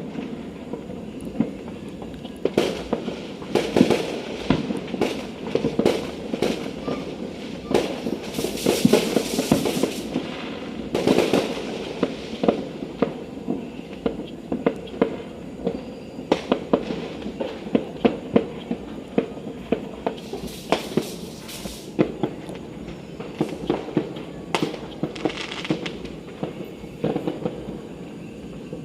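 Firecrackers and fireworks going off all around: dozens of sharp bangs in quick, irregular succession over a constant background rumble, with longer hissing stretches about eight to twelve seconds in and again around twenty seconds in.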